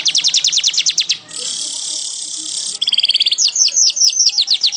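Weaver bird (manyar) singing: a fast run of sharp repeated notes, then a long buzzy hiss, then a chatter breaking into a quick series of short falling notes, all high-pitched.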